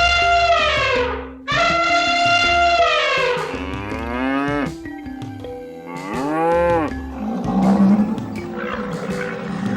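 Bull mooing: a few long calls, the first two held and sliding down in pitch, the later ones rising then falling, over light background music.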